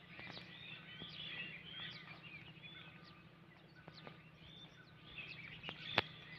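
Faint birdsong: many short chirps and whistles from small birds, over a low steady hum, with a single sharp click near the end.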